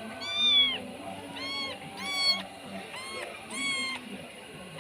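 Cats meowing repeatedly: about five short meows, each rising then falling in pitch.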